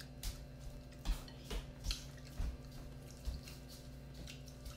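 Close-up eating sounds: irregular wet smacks and clicks of lips and chewing, about seven spread over a few seconds, over a low steady hum.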